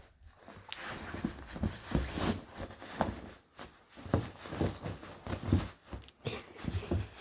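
A puppy scrabbling at and tearing into a new dog bed: irregular rustling and scratching of the fabric, with soft thumps.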